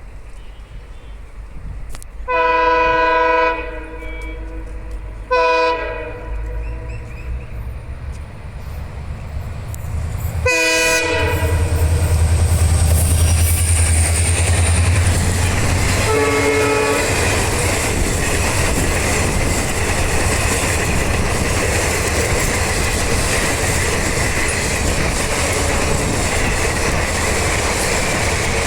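WDP4D diesel locomotive horn: a long blast, a short blast, then another as the train arrives. This is followed by the steady rumble and clickety-clack of the train running past at speed.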